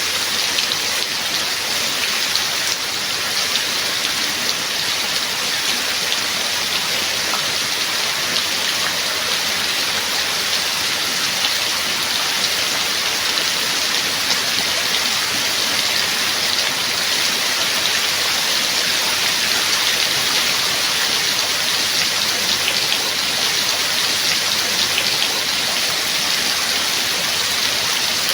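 Steady rain falling, an even hiss with a fine patter of individual drops, constant in strength throughout.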